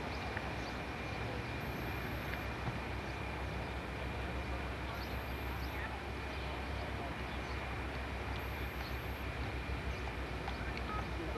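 Low, steady rumble of a train moving along the tracks, with a fast uneven throb underneath.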